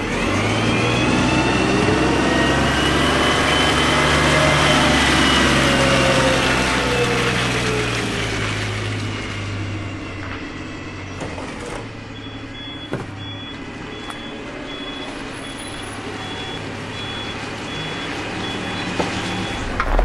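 A large truck's engine passing close by, its pitch rising and then falling as it goes past and fades, followed about twelve seconds in by a steady repeating high-pitched beep like a truck's reversing alarm.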